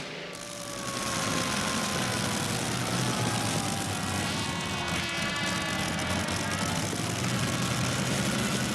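Engine noise from a pulling tractor: a whine falling slowly in pitch over the first few seconds, then a steady running hum.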